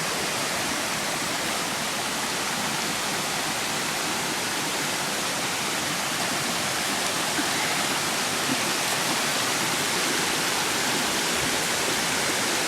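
Steady rush of a small waterfall pouring into a creek.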